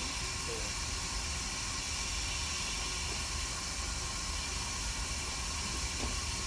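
Steady hiss of blowing air with a low hum underneath, from equipment running on an electronics repair bench, with a faint small tap near the end.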